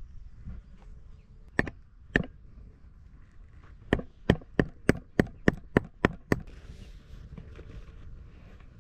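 A hammer driving a tent peg into the ground: two single blows, then a quick run of about nine sharp strikes, roughly three a second.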